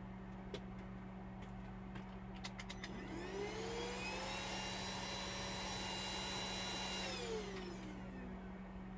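Small electric motor spinning up with a rising whine, running steadily for about three seconds, then winding down. Before it come a few light clicks, including a quick run of clicks just before it starts.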